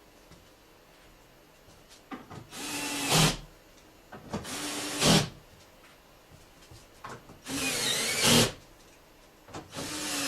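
A power tool runs in four short bursts, each under a second long and louder just before it stops, typical of running in bolts or screws.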